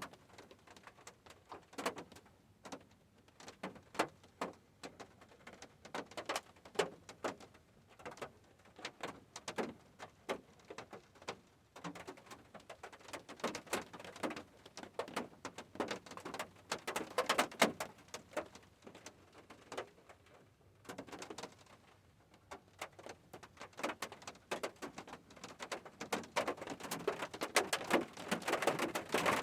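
Rain dripping and pattering on a hard surface, heard as an irregular run of separate taps that grows busier and louder near the end.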